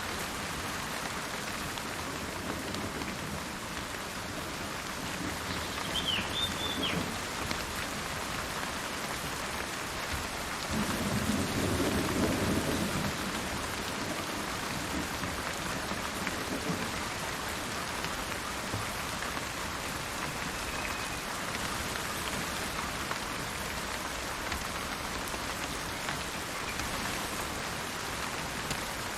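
Steady rain falling, with a low roll of thunder building and fading about eleven to thirteen seconds in. A brief bird chirp sounds about six seconds in.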